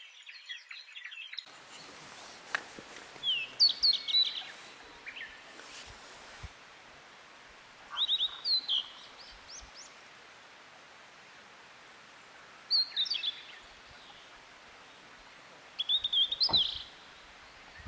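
Wild songbird singing in a forest, repeating a short phrase of quick, high, sweeping chirps roughly every four to five seconds over a faint steady background hiss.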